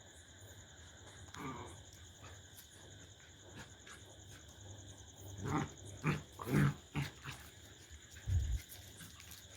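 Dogs growling and snarling as they fight: short growls, one about a second and a half in, then a quick run of them in the second half and a deeper one near the end.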